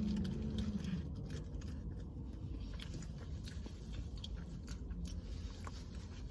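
A person chewing a mouthful of chicken sandwich, with soft scattered clicks, after a low held hum that stops within the first second.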